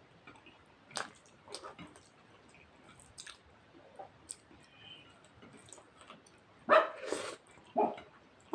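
Close-miked chewing and lip smacks of someone eating rice and mutton curry, a string of short wet clicks, with a louder, longer sound about seven seconds in and another shortly after.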